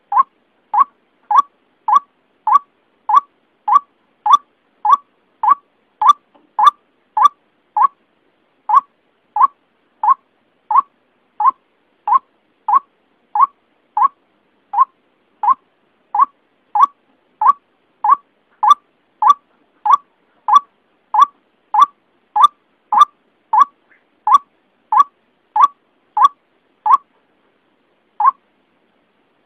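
White-breasted waterhen (ruak-ruak) call used as a trapping lure: short, loud notes repeated monotonously, about one and a half a second, with a few brief pauses.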